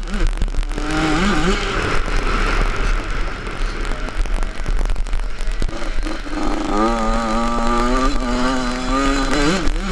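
Yamaha 85 two-stroke motocross bike engine revving up and down under the rider's throttle, then held at a steady high pitch for the last few seconds. Wind rushes over the helmet-mounted microphone throughout.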